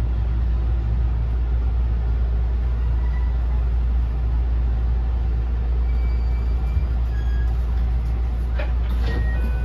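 Interior running noise of a JR West 207 series trailer car slowing on the approach to a station: a steady low rumble of wheels on rail, with faint, thin high squeals from about halfway on and a few short clicks near the end.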